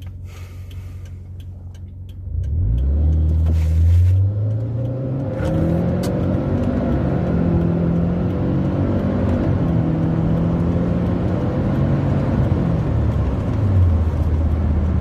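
Turbocharged flat-four of a Subaru Forester tS STI with CVT, heard from inside the cabin. It idles, then makes a full-throttle launch about two seconds in, the engine note climbing and stepping through the transmission's gear steps, and eases off near the end.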